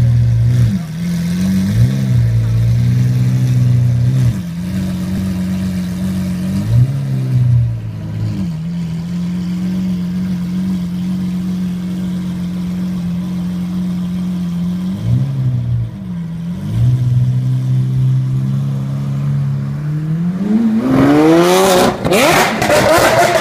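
Lamborghini Aventador's naturally aspirated V12 idling steadily, with several short throttle blips. Near the end it revs up in a long rising pull as the car accelerates away.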